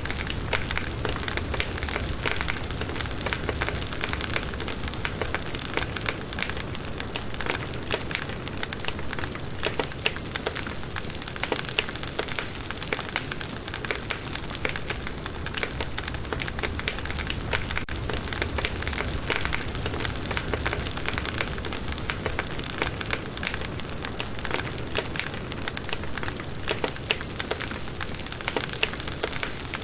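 Firewood burning in a campfire, crackling steadily with many small, sharp pops and snaps.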